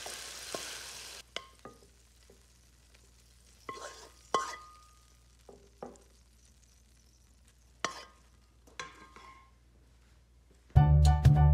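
Stir-fried beef sizzling in the hot wok as it is slid onto the plate, cutting off suddenly about a second in. Then scattered scrapes and knocks of the wooden spatula and wok against the ceramic plate, one with a brief ring. Loud background music with a beat starts near the end.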